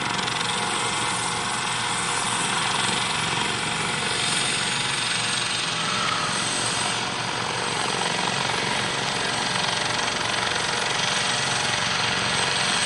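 Eurocopter AS565K2 Panther twin-turbine helicopter running, a loud, steady rush of turbine and rotor noise.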